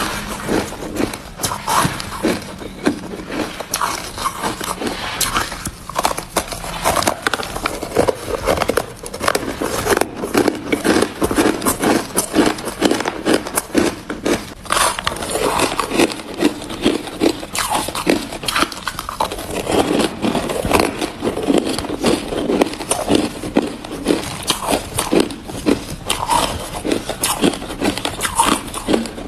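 Hard ice being bitten and chewed close to the microphone: a continuous run of sharp, loud crunches and cracks.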